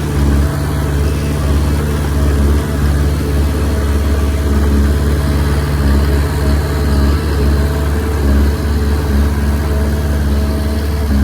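Komatsu D20P bulldozer's diesel engine running steadily, a low, even drone with no large changes in revs.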